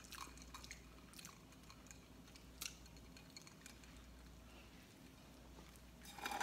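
Faint chewing and small mouth clicks of people eating, with a short, louder noisy sound near the end.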